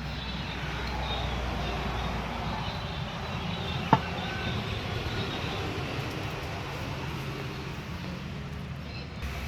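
Car driving, with a steady low rumble of engine and road noise; a single sharp click about four seconds in.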